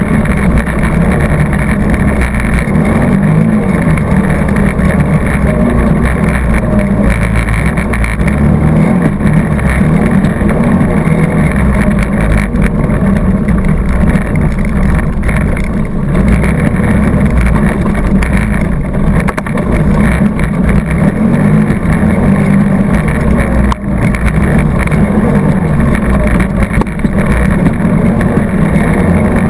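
ATV engine running steadily under load while being ridden, loud and continuous, with a short dip in level about 24 seconds in.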